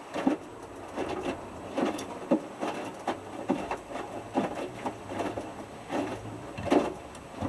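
Hotpoint Futura HF8B593 washing machine drum tumbling a small wet load in the heat-maintenance stage of a 60 °C whites main wash: clothes flopping and water splashing in irregular soft thuds about once or twice a second, with a low drum-motor hum in the second half.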